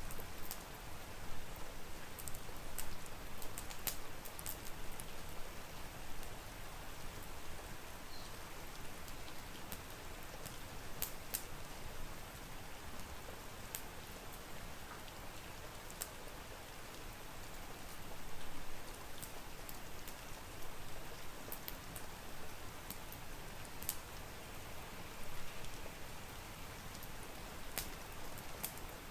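Steady rain, with sharp, irregular crackles and pops from a wood fire in a fireplace.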